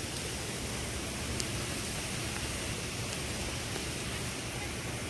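Steady, even rush of tropical-storm wind and rain, with no gusts or breaks.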